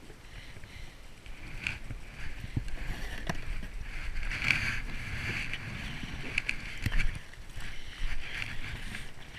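Water splashing and dripping around a kayak on a river, swelling in uneven bursts, with a few sharp knocks.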